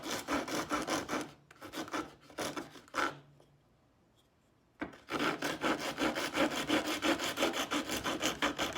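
Coarse wood rasp scraped rapidly back and forth over a rough-cut opening in a piece of 2x4 lumber, removing wood quickly to bring it down to depth. The strokes come in quick runs, with a short pause about three seconds in before a long steady run.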